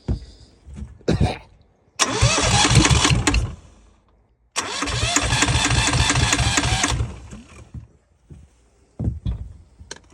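Yanmar 2GM two-cylinder marine diesel being cranked over in two attempts, the first about a second and a half long, the second about two and a half seconds, with a rapid even pulsing of the cylinders; it does not catch and run. A few short knocks come before and after.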